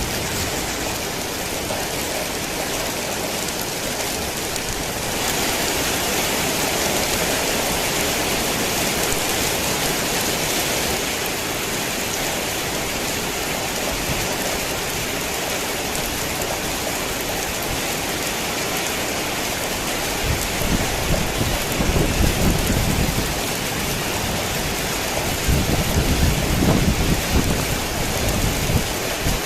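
Heavy rain falling steadily, growing heavier about five seconds in, with two long rolls of low thunder rumble in the last third.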